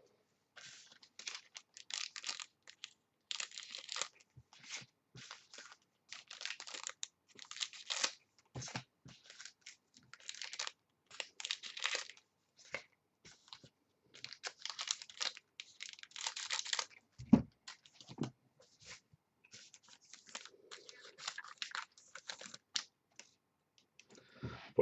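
Trading-card packaging and cards being handled, a long run of short, irregular crinkling and rustling sounds.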